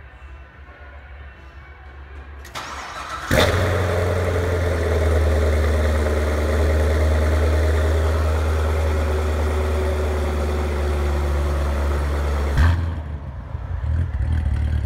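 2015 Corvette Z06's supercharged 6.2-litre V8 being started: the starter cranks briefly, then the engine catches about three seconds in with a loud flare and runs a steady, loud fast idle through the quad exhaust. About twelve and a half seconds in it blips once and settles to a lower idle.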